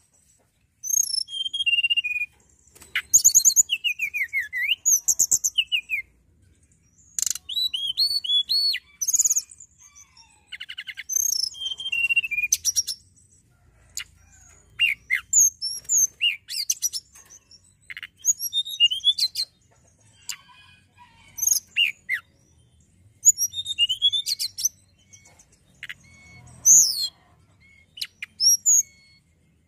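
Tledekan gunung (hill blue flycatcher) singing: phrases of high, quick whistled notes, rapid trills and sliding chirps, each a second or two long with short pauses between.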